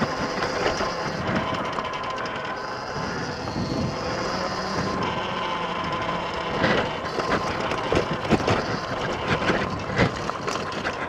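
X Pro dirt bike's small engine running steadily as it is ridden along a trail, with knocks from the bike going over bumps from about six seconds in.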